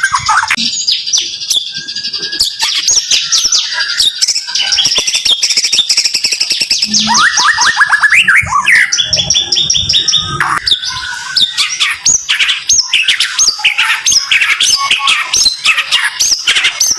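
White-rumped shama (murai batu) singing its rapid 'tembakan' song: fast runs of sharp, high whistled notes with quick rising sweeps, broken by brief pauses.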